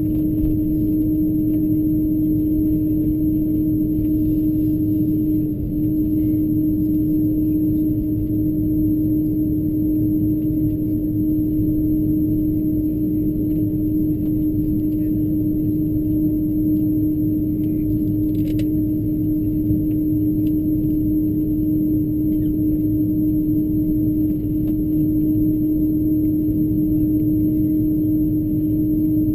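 Airbus A330-223's Pratt & Whitney PW4000-series engines heard from inside the cabin at low taxi power: a steady rumble with a strong constant hum.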